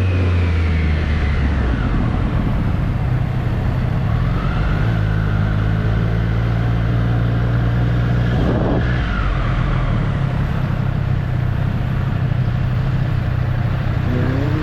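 Triumph Street Triple's inline three-cylinder engine under way, its note dropping over the first couple of seconds as the bike slows, then holding steady over a rush of wind and road noise. About two thirds of the way through the pitch dips and climbs again quickly.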